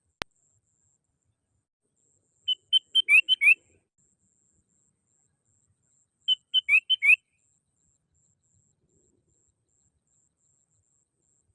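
Sooty-headed bulbul singing: two short phrases of five or six quick notes, some of them rising, a few seconds apart. A single click comes just before the first phrase.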